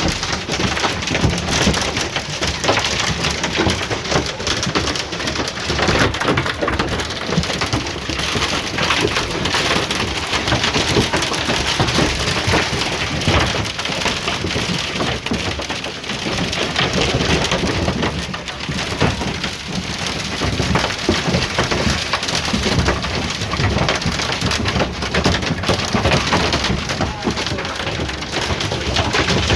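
A hailstorm: hail and rain pelting down in a dense, unbroken clatter of small impacts, with wind gusting.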